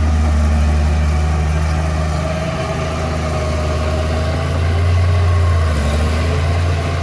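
Heavy diesel engine of earth-moving machinery running steadily with a deep hum, swelling briefly about five seconds in, with a faint thin whine through the middle.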